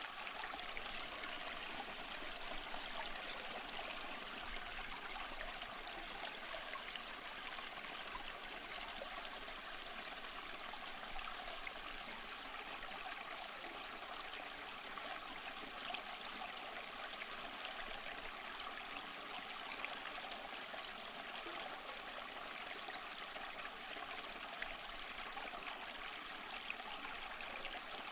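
Waterfall: running water pouring and splashing in a steady, unbroken rush, mostly bright and hissy with little deep rumble.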